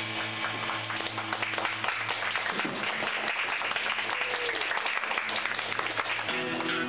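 Small audience clapping and applauding as the acoustic guitar's last notes fade out after a song, with acoustic guitar starting up again near the end.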